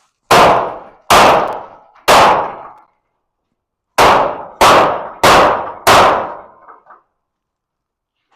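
Hammer blows on metal garage door hardware, straightening a bent part: three loud ringing clangs about a second apart, a pause, then four more in quicker succession.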